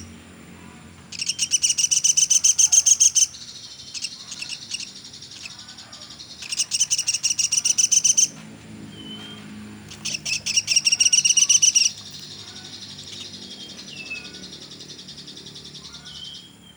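Pelatuk sampit (velvet-fronted nuthatch) calling: three loud rapid trills of sharp, high repeated notes, about ten a second, each lasting about two seconds, about a second in, midway and about two-thirds through. A quieter steady high-pitched sound continues between them.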